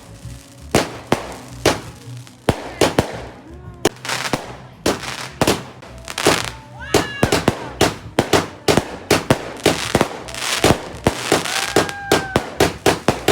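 Fireworks going off: many sharp bangs and crackles in quick succession, growing denser from about four seconds in, with a few short whistling tones among them.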